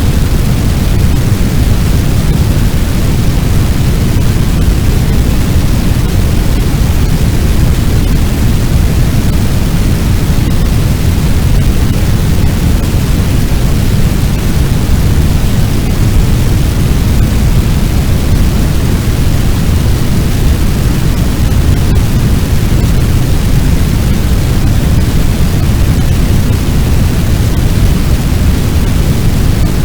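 Fire sound effect: a steady, loud, deep rush of noise with a thinner hiss above it. It is even throughout, with no crackles, pops or separate events.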